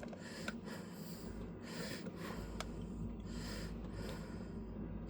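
Fresh motor oil being poured from a jug through a funnel into the engine, giving faint, irregular glugs and soft gurgles over a steady low hum.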